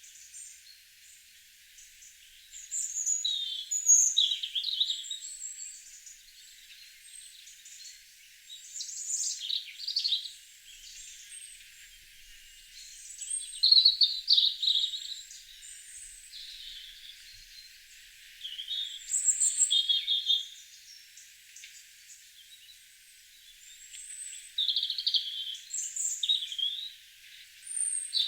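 Several songbirds singing and chirping, in spells of song every few seconds with quieter gaps between.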